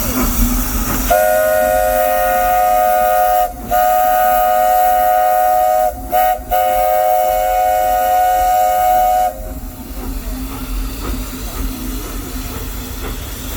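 Steam locomotive's chime whistle sounding several notes at once: two long blasts, a short toot, then a final long blast, with steam hissing once the whistle stops.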